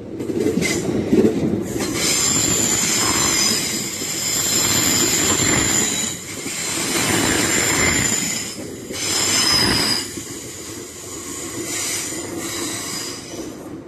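TransPennine Express passenger train running past close by at speed: rumbling wheels and rails with a thin high-pitched squeal above, swelling and dipping as the coaches go by.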